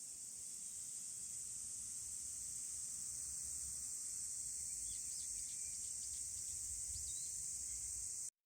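Outdoor ambience: a steady, high, faint insect drone, with a few short bird chirps about halfway through. It cuts off just before the end.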